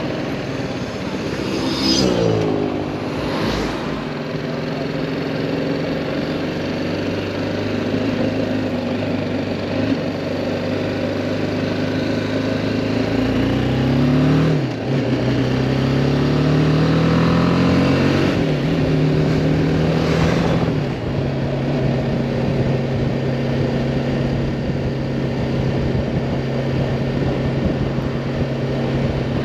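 2018 BMW G310R's single-cylinder engine under way: the revs fall about two seconds in, then the bike accelerates through the gears in the middle, the engine note rising, dropping sharply at each shift and rising again, before settling to a steady cruise. Wind and road noise run underneath.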